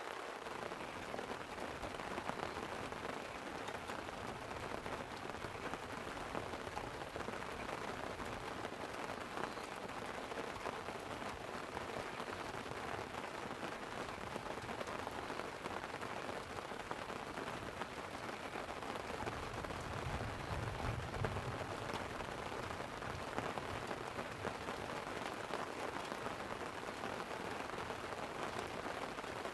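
Light rain pattering steadily on a tent, with many small drop ticks. A low rumble of distant thunder swells and fades about twenty seconds in.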